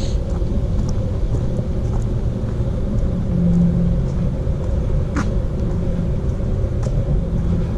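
Steady low rumble with a faint, constant hum.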